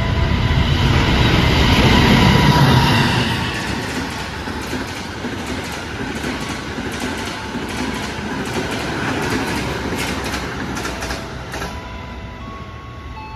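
A diesel-electric locomotive-hauled passenger train passes through a station at speed, loudest with a low rumble about two seconds in. A steady rolling noise follows, with rapid wheel clicks over rail joints as electric commuter trains run past.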